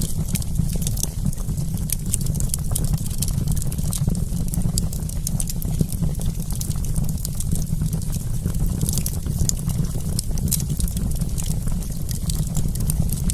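Wood campfire crackling, with many small sharp pops and snaps scattered irregularly over a steady low rumble.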